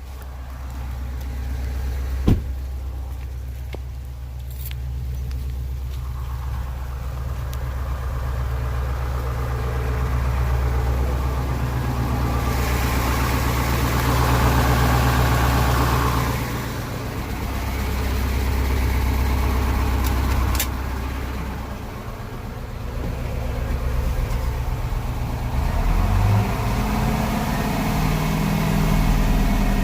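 Detroit Diesel 8.2-litre V8 diesel engine in a crane truck running, its speed raised and lowered several times: it swells about twelve seconds in, eases back, and climbs again near the end. The engine is being checked for a reported misfire, smoking and loss of power.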